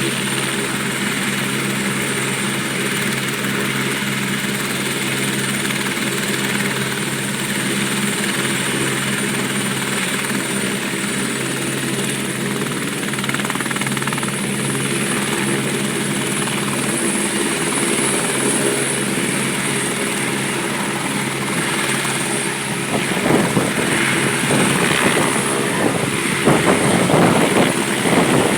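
Helicopter turbine engine and rotor running steadily, with a high turbine whine that rises slightly about twelve seconds in. Louder rushing gusts come in near the end.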